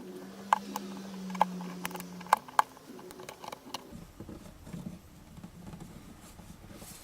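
Scalpel blade trimming glue and swollen wood fibres along an acoustic guitar's binding edge: a quick run of small sharp clicks and scratches that dies away after about three seconds.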